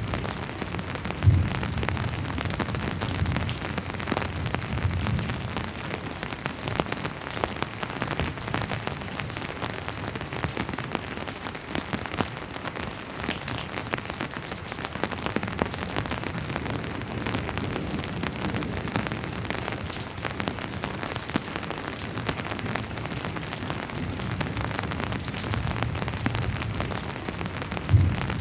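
Steady rainfall, an even hiss of drops on surfaces, with a sudden low thump about a second in and another near the end.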